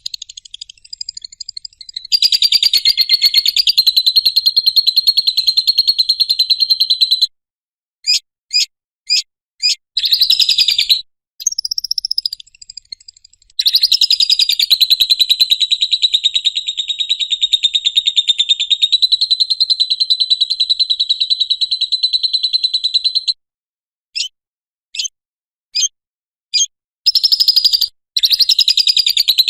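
Lovebird 'ngekek': long runs of rapid, high-pitched chattering, one lasting about five seconds and one about ten. A few short separate chirps come between the runs, and another run starts near the end.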